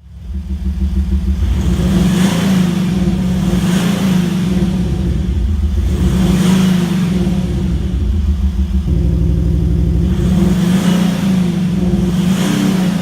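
Porsche Cayenne revved five times in short blips, with the Kufatec Sound Booster Pro switched on, its exhaust-mounted speaker playing a synthetic V8-style engine note over the real engine. The character of the note changes about two-thirds of the way through, a switch to a second of the booster's tones.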